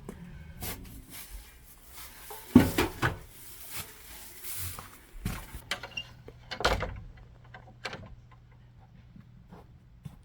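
Irregular knocks, clatter and thumps, the loudest about two and a half seconds in and another near seven seconds, with a faint steady hum underneath from about halfway through.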